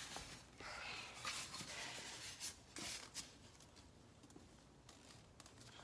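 Faint rustling and a few light knocks, as of cardboard or clothing being handled, dying away to quiet room tone after about three seconds.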